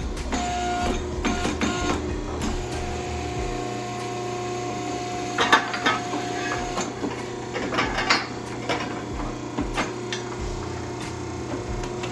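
Exhaust-shop work on a car's exhaust pipes: a steady machine hum with scattered clicks and clanks of metal, and louder clattering bursts about five and a half and eight seconds in.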